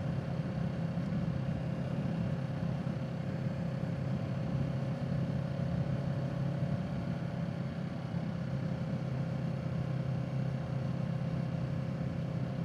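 Kawasaki Z650 parallel-twin motorcycle engine running at a steady cruise, with a low hum and wind and road noise that stay even, no revving or gear changes.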